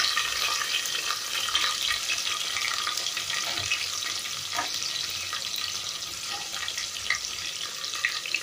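Sliced onions frying in hot oil with curry leaves in an open pressure cooker: a steady sizzle with scattered small crackles that dies down a little as it goes on.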